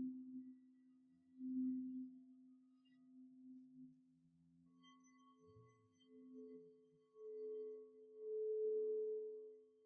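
Two singing bowls ringing in a sound bath. A low bowl holds a steady hum that swells twice near the start. A higher bowl joins about five seconds in and swells to its loudest near the end.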